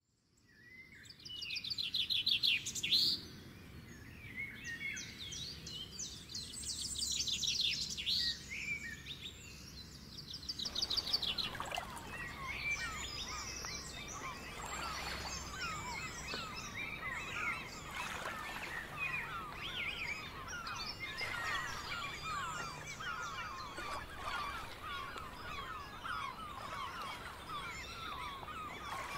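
Birds chirping and singing: quick trills for the first ten seconds or so, then from about eleven seconds in a dense chorus of many short falling chirps, over faint low background noise.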